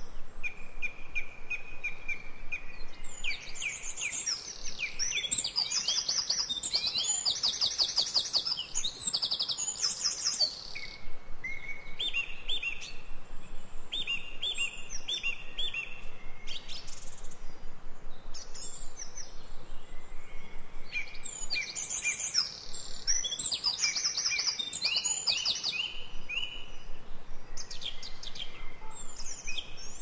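Songbirds singing and chirping in woodland: two dense stretches of fast, high chirping trills, with runs of short, evenly repeated notes in between.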